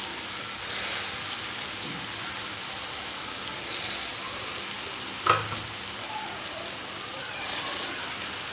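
Onion-tomato masala sizzling steadily in oil in a steel kadhai on low heat as stuffed brinjals are set into it. One sharp knock about five seconds in.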